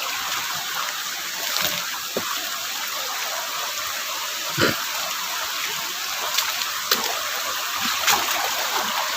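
River water running steadily over rocks, with a few short knocks or splashes now and then.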